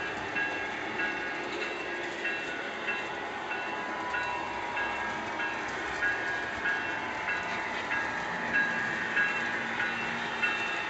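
Model railroad train running along the track, with an even clickety-clack somewhat under two clicks a second.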